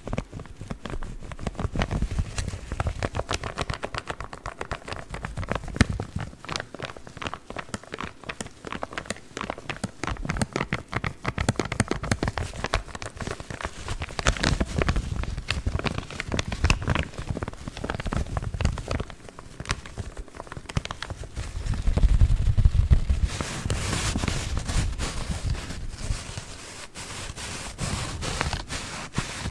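Paper coffee filter bags being handled close to the microphone, crinkling and rustling with dense, fast crackles throughout. The sound turns brighter and hissier over the last few seconds.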